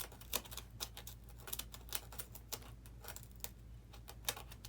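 A blade cutting into a foam model-airplane wing: irregular scratchy clicks and crackles, several a second, as a channel for wiring is carved out. A steady low hum lies underneath.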